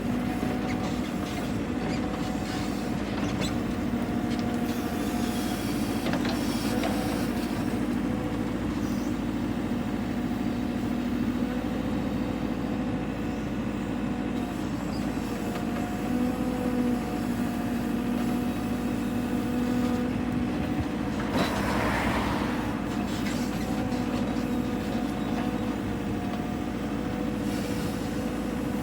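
An engine running steadily at a near-constant speed, its pitch shifting slightly now and then, with a short hissing burst about 22 seconds in.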